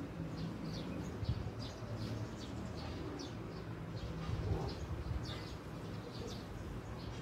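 Small birds chirping in quick, short notes, several each second, over a steady low hum.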